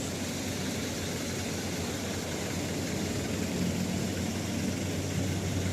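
Steady rain hiss with a motor vehicle's engine running under it, a low hum that grows a little stronger about halfway through.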